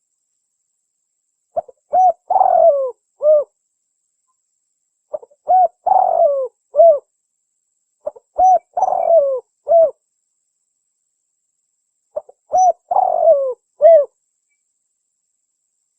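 Spotted dove cooing: four phrases a few seconds apart. Each phrase is a quick short note followed by several hooked coos, the longest of them falling in pitch in the middle.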